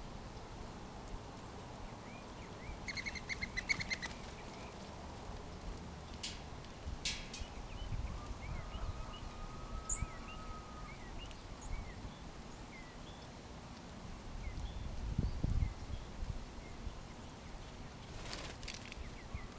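Small backyard birds calling: a quick chattering run of notes about three seconds in, then scattered short chirps, over steady outdoor background noise. A few sharp clicks and low rumbles come in between.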